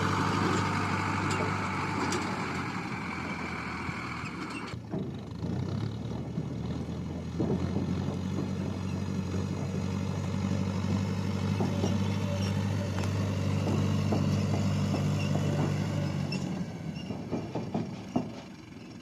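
Tractor engine running steadily under load, with scattered rattles and clanks. About five seconds in, a loud hiss that lies over it stops abruptly, and the engine sound drops away near the end.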